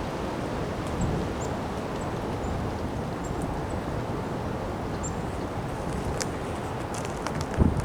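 Windstorm wind blowing steadily, a rushing noise strongest in the low range, with wind buffeting the microphone. Faint high chirps come through now and then, a few clicks follow later, and there is a low thump near the end.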